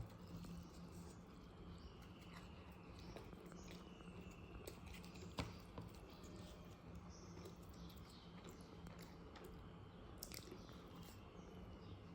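Faint chewing and mouth sounds of a person eating, with scattered soft clicks and one sharper click about five seconds in, over a steady low hum.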